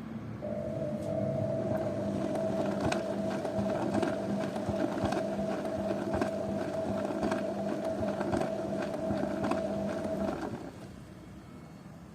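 Zanussi washing machine's motor turning the drum with a steady hum, a light click or knock about once a second as the drum goes round; the motor stops about ten seconds in, as in a wash tumble.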